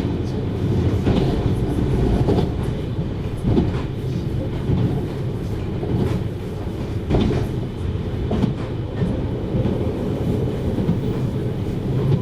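JR Hokkaido 733 series electric multiple unit running along the line: a steady low rumble of wheels on rail, with a few scattered clacks as the wheels cross rail joints.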